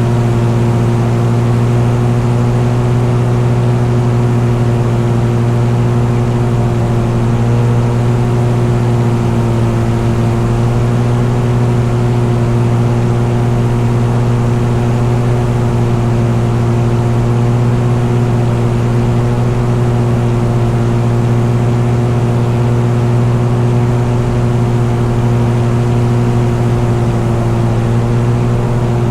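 Engine running steadily at constant cruise speed: a loud, unbroken drone with a strong low hum that holds the same pitch throughout.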